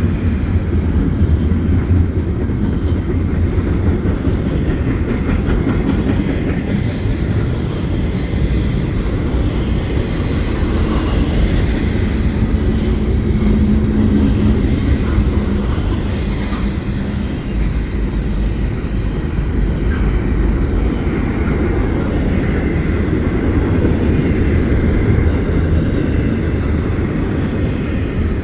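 Steady rumble of a double-stack container freight train's cars rolling past on the rails, with some clickety-clack of wheels over rail joints.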